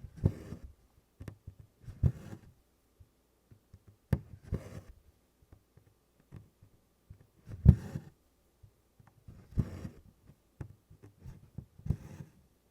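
An embroidery needle goes through taut 24-count Congress cloth and DMC cotton floss is drawn after it, one stitch about every two seconds. Each stitch is a soft tap followed by a short rasp of thread.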